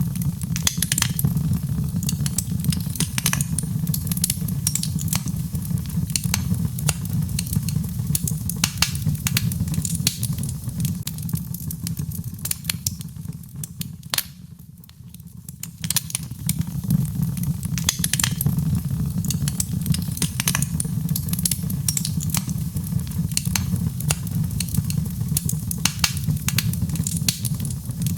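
Birchwood fire burning in a fireplace: a steady low rumble of flames with frequent sharp crackles and pops. About halfway through, the rumble briefly dies down and the crackling thins before both pick up again.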